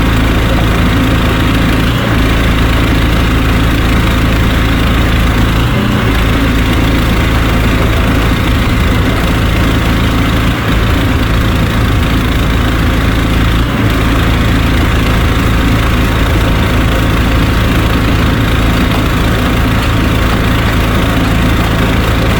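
Engine of a drain-clearing machine running steadily at a constant speed while the blocked drain is worked.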